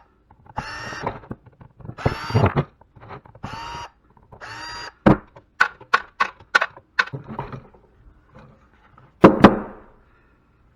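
Power drill-driver run in about five short bursts, backing out the screws that hold a plastic cover on. A quick run of sharp clicks and taps follows, then one loud thunk near the end.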